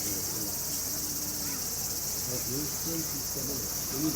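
Steady, high-pitched chorus of insects in an unbroken trill, with faint voices of people talking beneath it.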